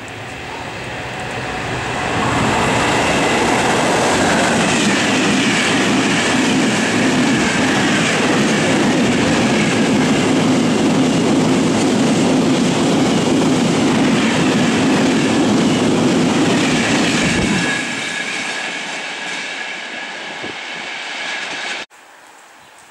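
Freight train of empty flat wagons, headed by an FS 'Tigre' electric locomotive, passing at speed. It swells as it approaches, then the wagons keep up a loud, steady rattle over the rails with a thin high squeal from the wheels. After about seventeen seconds the sound thins as the end of the train goes by, and it cuts off abruptly about a second before the end.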